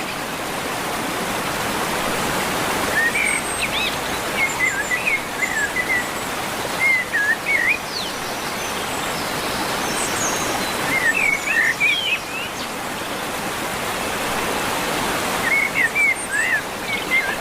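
Birds chirping in short, quick warbling bouts every few seconds over a steady rushing background noise.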